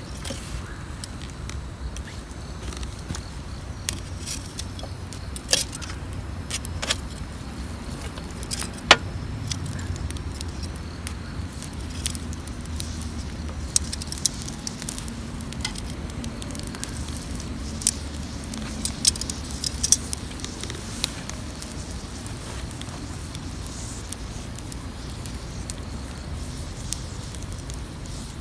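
Wood fire crackling: scattered sharp pops and snaps over a low steady rumble, the loudest pop about nine seconds in.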